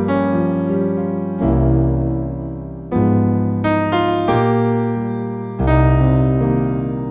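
Slow, gentle piano music: sustained chords struck every second or two and left to ring and fade.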